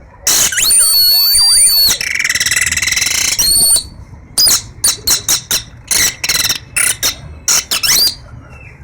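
A boy imitating a European goldfinch's song with his mouth: high whistled twittering, a buzzy trill about two seconds in, then a run of quick short chirps.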